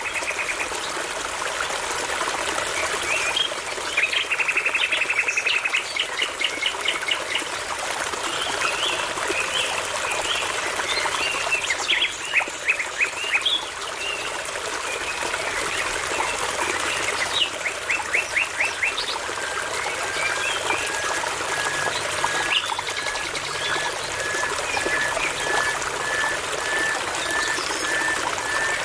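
A babbling brook runs steadily while songbirds sing over it in rapid trills and chirps. From about two-thirds of the way through, one bird repeats a single short note about twice a second.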